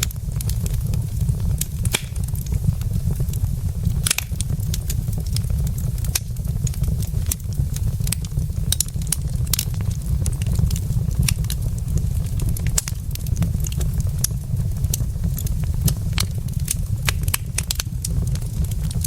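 Burning logs in a fireplace, crackling and popping in irregular sharp snaps, several a second at times, over a steady low rumble.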